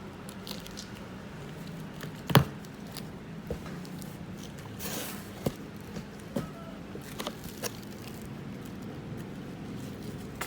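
Handling noises: scattered clicks and knocks, the sharpest about two seconds in, and a brief rustle around five seconds, over a steady low hum.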